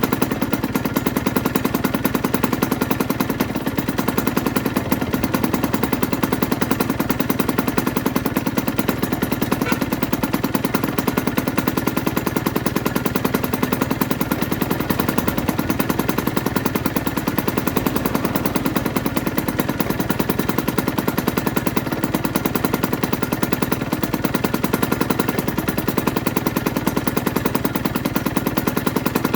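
2008 Aprilia RS125's two-stroke single-cylinder engine running steadily at idle, a rapid even stream of exhaust pulses that holds the same pace and level throughout.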